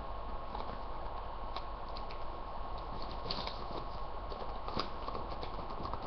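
Sheet of paper being handled and folded: scattered light taps and crinkles, irregular, over a steady hiss with a faint steady whine.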